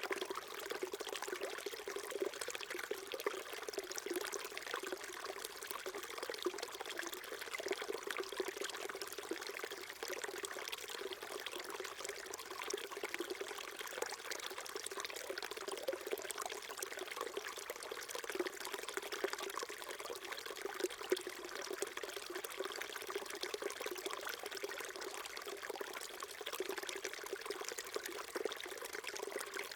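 A small stream flowing steadily, a continuous trickling and gurgling of water.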